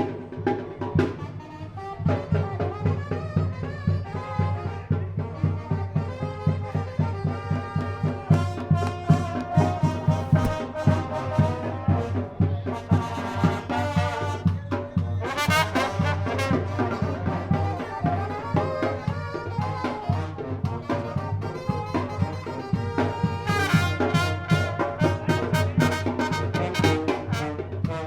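Tamborazo band playing live: trumpets and trombones carrying the tune over a steady, driving beat on the tambora bass drum. The music gets louder about two seconds in.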